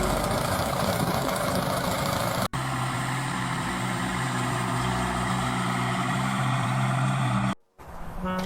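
An engine running steadily, cut off briefly about two and a half seconds in, then again near the end.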